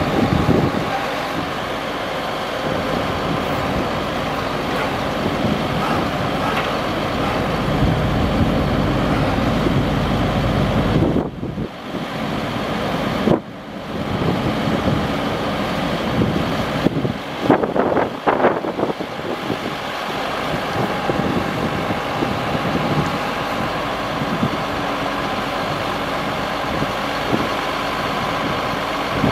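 A 2000 Chevrolet C7500 ladder truck's engine running steadily, with a short clatter a little past the middle.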